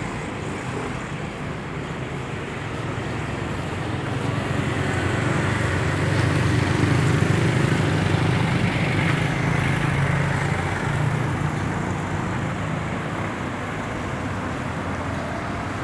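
Road traffic noise, with a vehicle's engine growing louder through the middle and then fading as it passes.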